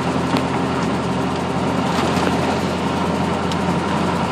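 Flathead V8 of a Ford Model A (AV8) hot rod running steadily while the car cruises at low speed, heard from the open cockpit.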